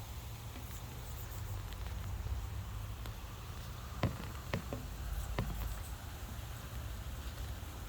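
Quaker parrot's beak biting into apple: about four sharp crunchy clicks in quick succession around the middle, over a low steady hum.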